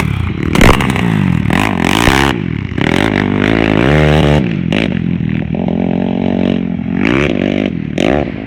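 Motocross motorcycle engines revving hard, their pitch climbing and dropping again and again as bikes accelerate, with overlapping engines in places. A sharp thump about half a second in.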